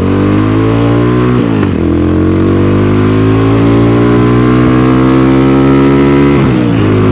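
Venom X22R 250cc motorcycle engine pulling through the gears under way. The revs climb, drop at an upshift about one and a half seconds in, climb steadily again, and drop at a second upshift near the end.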